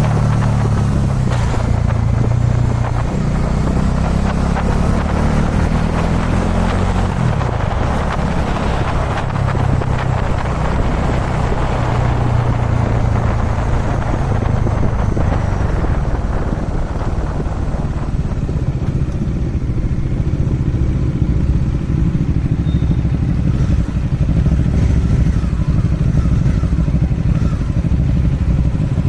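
Kawasaki Dominar 400 UG2's single-cylinder engine running steadily while the motorcycle rides along at road speed, with road and wind rush underneath. The engine note changes about seven seconds in.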